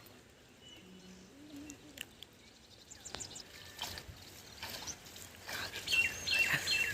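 Quiet outdoor ambience with small birds chirping and a few scattered clicks, the chirps loudest in the last second or so.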